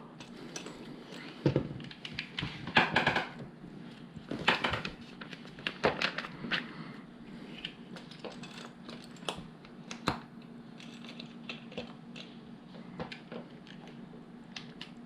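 Plastic LEGO pieces clicking and clattering as they are handled and pressed together. The small clicks come irregularly, in short clusters.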